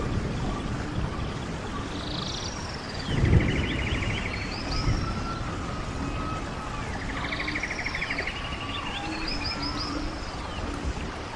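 Running stream with several songbirds singing over it: buzzy trills repeated a few times and high, quick chirps. A low rush swells briefly about three seconds in.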